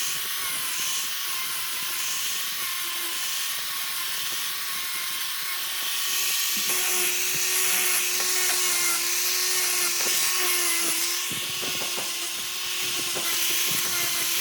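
A high-speed electric power tool running on wood with a steady whine. It gets louder and takes on a second tone about seven seconds in, as if it comes under load, with a few short knocks near the end.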